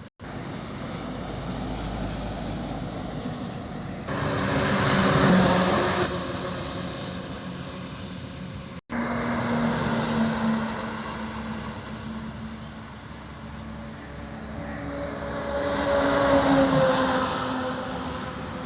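Heavy trucks passing on a highway, their engine noise swelling loud as each goes by, twice. The engine pitch drops as the second one passes. The sound breaks off abruptly about nine seconds in.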